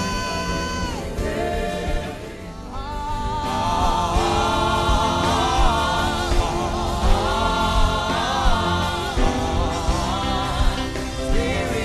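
Gospel worship music: a man's voice humming a slow melody with wavering, sliding held notes over a steady musical backing. There is a short lull about two seconds in before the voice comes back in strongly.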